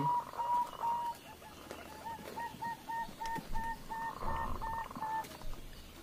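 A bird calling in rapid runs of short, clear, even-pitched notes, about four a second: one run fades out about a second in, and another runs from about two seconds in to about five seconds in.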